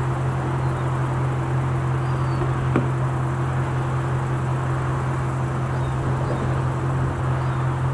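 A steady low mechanical hum, unchanging throughout, over faint outdoor background noise.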